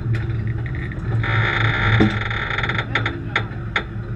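Race car engine idling with a low, uneven throb, with scattered sharp clicks. For about a second and a half in the middle, a harsh buzzing sound sits over it.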